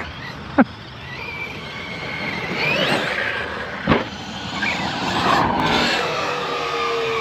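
Large 8S electric RC cars' brushless motors whining as they rev up and down on the throttle. Two sharp knocks stand out, about half a second in and again about four seconds in.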